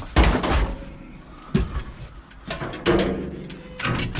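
Scrap being handled and loaded into a van: a run of clattering knocks and bangs, some with a short metallic ring.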